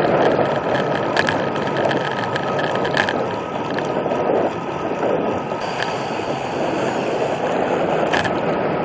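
Road bike riding in strong wind: steady wind noise buffeting the microphone over the rush of tyres on the road, with a few faint clicks.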